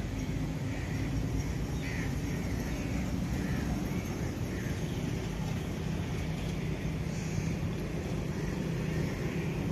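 Low, steady rumble of an approaching train's diesel locomotive, still distant, slowly growing louder.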